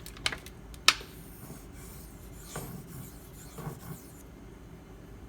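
Maxamet steel knife blade being stroked across a 1000-grit Nano Hone sharpening stone: two sharp clicks in the first second, then a few seconds of smooth rubbing strokes. The stone is polishing the bevel rather than cutting the hard steel.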